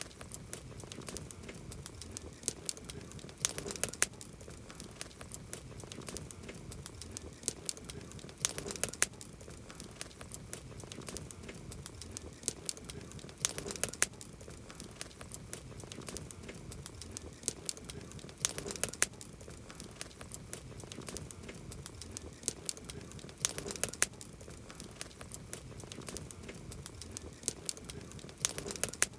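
Campfire of burning wood crackling: a steady stream of small sharp pops and snaps over a low rush, with a louder cluster of pops about every five seconds.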